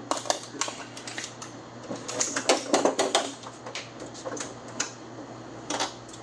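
Irregular run of sharp metallic clicks and clatter from hand tools and loose metal parts as a truck door is taken apart, busiest about two to three seconds in.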